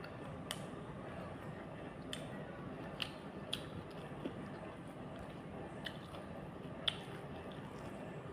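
Person eating close to the microphone: chewing, with about seven short, sharp mouth smacks and clicks at irregular intervals over a steady background hiss.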